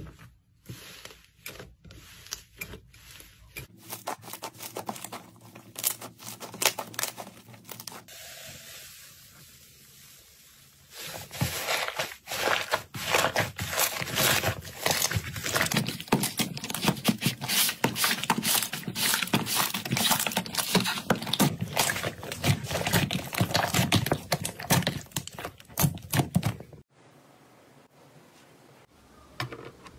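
Crunchy slime being squeezed and pressed by hand: dense crackling and popping clicks. It is quieter at first, then loud and continuous from about eleven seconds in until an abrupt drop near the end.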